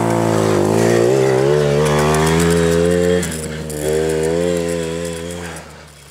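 Small 50cc two-stroke quad bike engine revving, its pitch wavering with the throttle. It drops back about three seconds in, picks up again, then dies down near the end.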